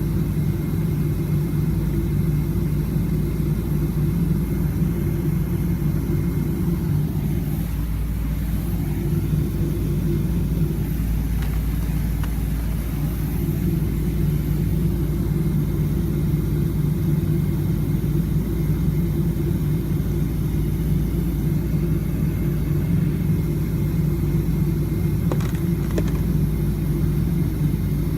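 Airliner's jet engines and airframe making a steady low rumble that holds level throughout.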